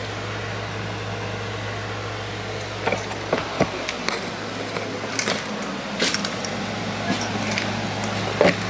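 Steady low hum, like a running fan or air-conditioning unit, with scattered short clicks and knocks from about three seconds in.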